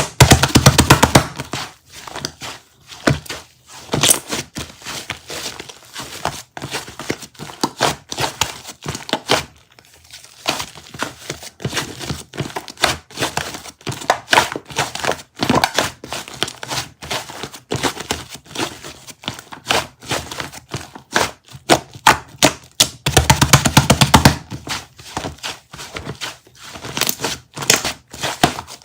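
Dense, irregular crackling and clicking from something crinkly being squeezed or crumpled, louder just after the start and again near the end.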